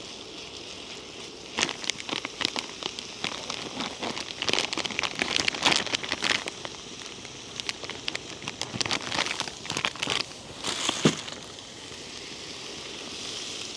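Steak and vegetables frying in a pan for a cheesesteak, a steady sizzle with crackling pops. Sharp clicks and scrapes come and go through the middle, falling off near the end.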